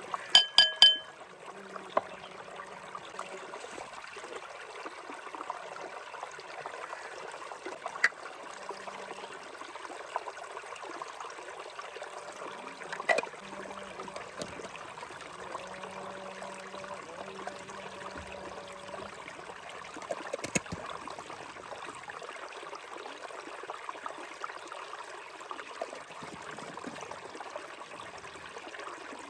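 Steady trickling water with three quick ringing clinks of metal or glass about half a second in, and a few single sharp clicks later on.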